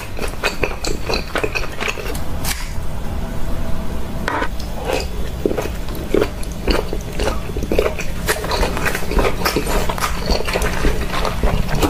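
Close-miked chewing of shellfish meat, with many short smacks and clicks of the mouth and lips.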